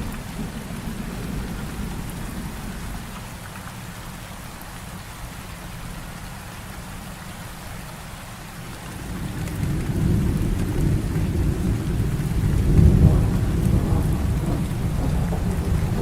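Heavy rain falling steadily with rolling thunder; a deep rumble of thunder swells about nine seconds in, is loudest a few seconds later, then eases.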